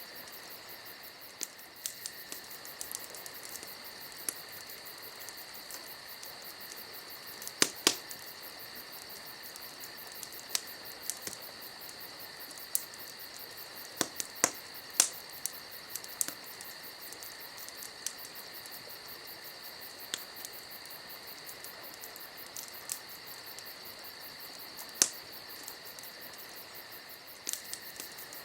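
Wood campfire crackling, with irregular sharp pops and snaps, a few louder ones about 8, 15 and 25 seconds in, over a steady high insect chorus.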